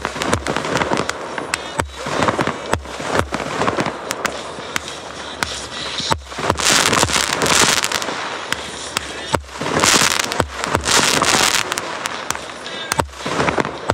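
New Year's fireworks going off in quick succession: repeated booms and sharp cracks, with two longer spells of loud crackling hiss, one about six and a half seconds in and one about ten seconds in.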